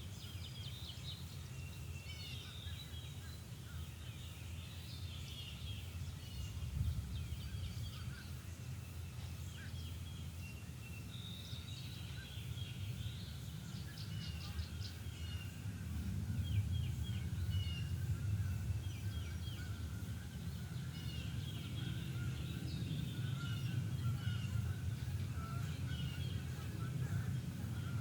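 Songbirds of a spring dawn chorus calling and trilling, many short chirps overlapping, over a steady low rumble.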